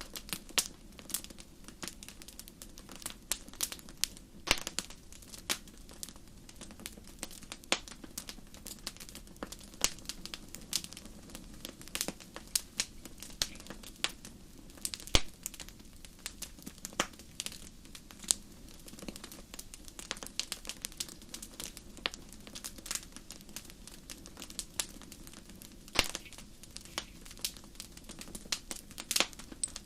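Crackling wood fire: irregular sharp pops and snaps, several a second, over a low steady background.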